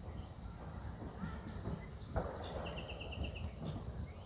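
Songbird singing: a thin, high, level note about a second and a half in, then a quick trill of about seven short notes, over steady low background noise.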